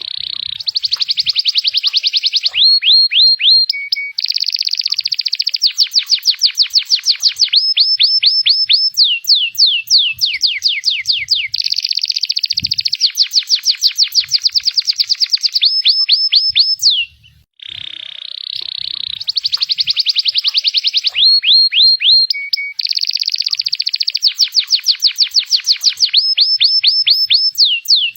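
Local Indonesian 'panda' canary singing a long, loud rolling song of fast trills, runs of quickly repeated notes and rapid downward-sweeping notes. It breaks off briefly about 17 seconds in, then starts again with the same sequence of phrases.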